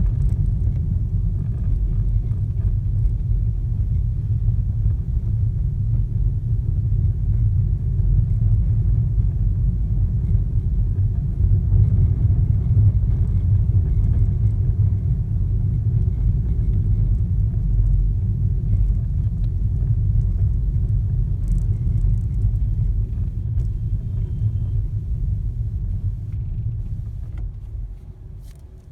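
Steady low rumble of a car, fading out near the end.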